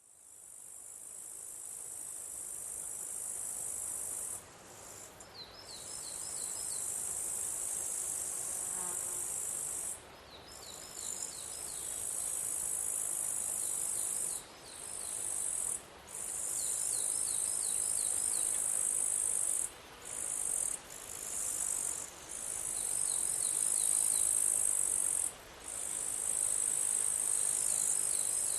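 Insect song, cricket- or cicada-like: a dense, high-pitched trill that fades in over the first few seconds, then runs on with about eight brief pauses. After several of the pauses comes a short run of four or five quick, lower chirps.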